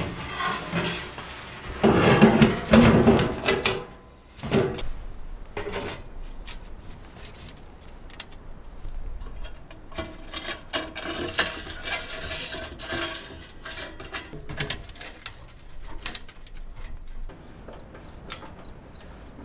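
Objects being handled: a run of knocks and clatter, loudest about two to four seconds in, followed by lighter taps and rustling.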